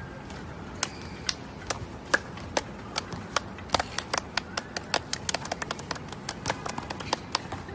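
A run of sharp, irregular taps, sparse at first and coming faster from about three seconds in, over a steady low hiss.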